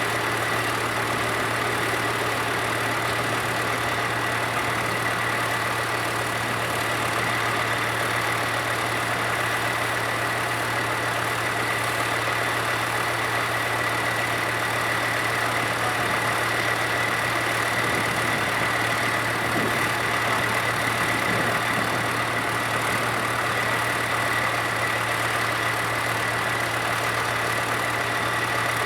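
Tractor diesel engine idling steadily at low revs, with a thin steady high whine over the engine note.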